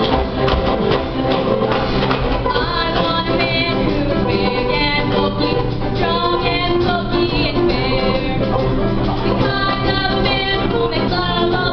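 A cast singing a stage-musical number together with instrumental accompaniment.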